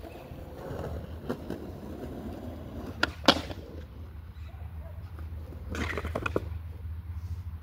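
Skateboard rolling on hard ground, with two sharp board clacks about three seconds in and a quick run of smaller clacks and knocks around six seconds.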